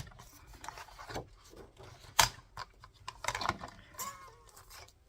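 Paper being cut and handled on a craft table: irregular rubbing and rustling with a few sharp clicks, the loudest about two seconds in.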